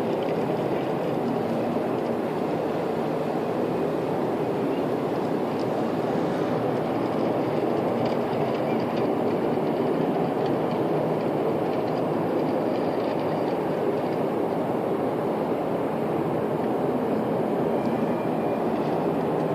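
A steady, unbroken low rumbling drone with no clear source, the kind of sound presented as an unexplained 'strange sound in the sky'.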